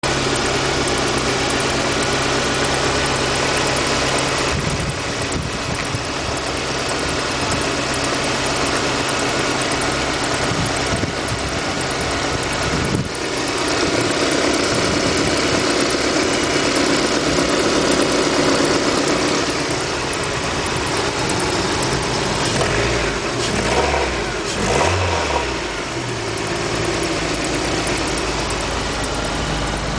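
VAZ 2112 engine running with a whistle from the timing belt drive, which the owner takes for a timing belt fault. The engine is revved briefly about three quarters of the way through.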